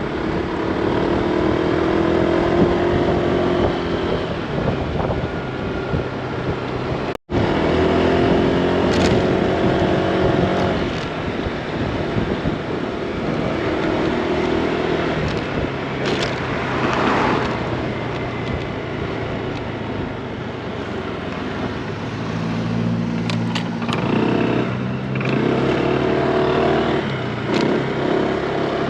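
Honda Click 160 scooter's single-cylinder engine running on the move, its pitch rising and falling as it speeds up and eases off, over a steady rush of road and wind noise. The sound breaks off for an instant about seven seconds in.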